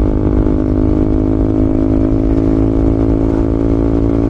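KTM Duke 200's single-cylinder engine running at a steady cruise, its pitch holding nearly level and easing slightly near the end, over a dense low rumble.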